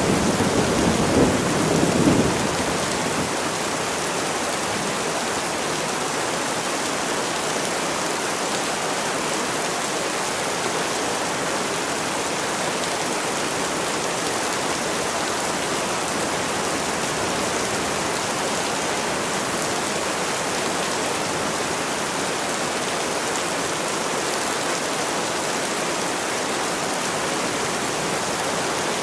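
Steady heavy rain, an even hiss of falling water. A louder low rumble in the first two seconds dies away, after which the rain runs on unchanged.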